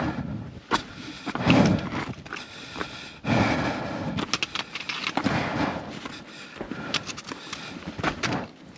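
Hiker's footsteps going down the trail's steps: irregular scuffs and sharp clicks of boots on the treads, with a longer rustling scrape a few seconds in.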